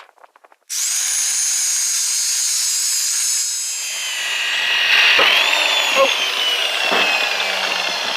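Grinder switched on just under a second in, running with a high whine that slowly drops in pitch. From about four seconds it turns rougher as it bites into the scrap electric motor.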